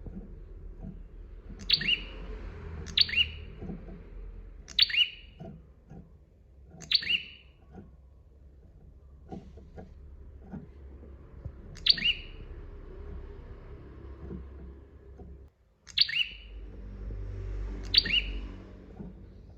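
Prinia (prenjak) giving short, sharp chirping calls with quickly falling notes, repeated irregularly every one to four seconds, over faint low taps in the background.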